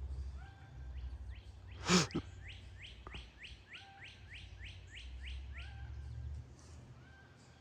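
A songbird repeats the same clear, slurred note about a dozen times, a little over two notes a second. A single short, sharp and louder sound cuts in about two seconds in.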